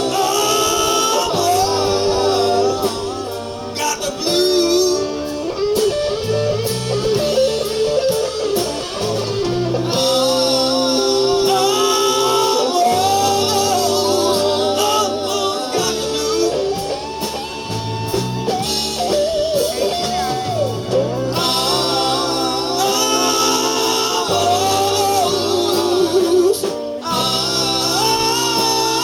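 Live blues-rock band playing, with a melodic lead line, likely guitar, over bass and drums.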